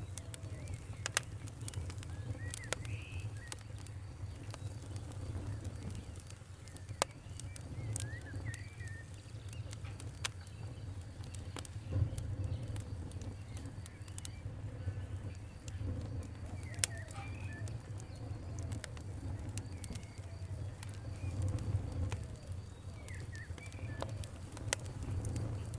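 Wood fire crackling, with scattered sharp pops over a steady low rumble of burning. Birds chirp faintly in the background every few seconds.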